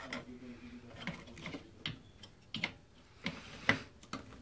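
A few irregular light clicks and knocks of hand tools and small parts being handled, with the sharpest knock near the end.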